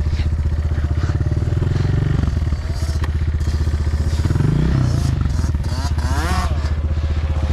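Dirt bike engine running close by at a steady idle, revved up and back down a few times.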